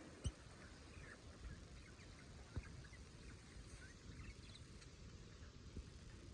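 Budgerigars chirping faintly in short, scattered peeps, with a couple of soft taps.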